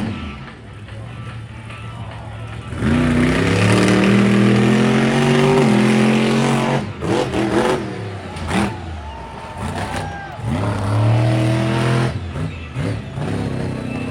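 Monster truck engine revving, its pitch rising and falling repeatedly. It is loudest from about three seconds in to about six, and surges again after about ten seconds.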